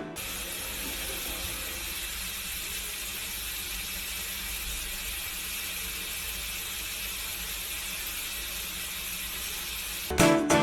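Steady, even hiss with no distinct events, starting and stopping abruptly.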